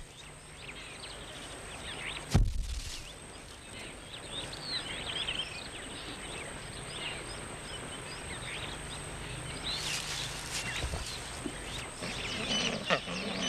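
Wild outdoor ambience full of many short, high chirps and calls of varying pitch, with a single sharp thump about two seconds in.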